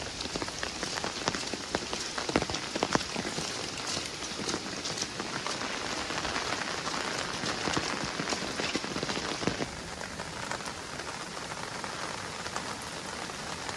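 Steady rain falling, with many individual drops spattering and ticking on surfaces.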